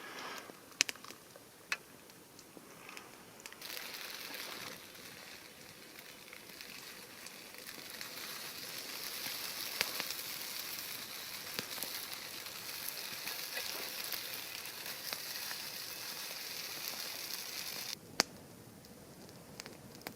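Water-spritzed pastries sizzling as they toast in a pan on a camp stove: a steady high sizzle that sets in about 3.5 s in and cuts off abruptly with a click about 18 s in. A few light clicks and knocks come before it.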